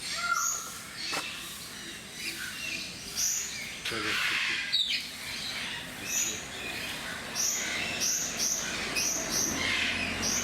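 Birds chirping: many short, high notes, coming several times a second in the second half, with a louder, harsher burst about four seconds in.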